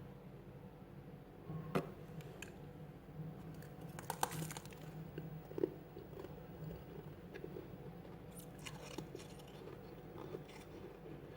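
Freezer frost being bitten and chewed close to the microphone: scattered crisp crunches, loudest just before two seconds in and again around four seconds in.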